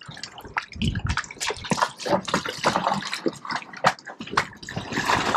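Sea water splashing and sloshing against the hull of a sailboat under way, in uneven, irregular splashes.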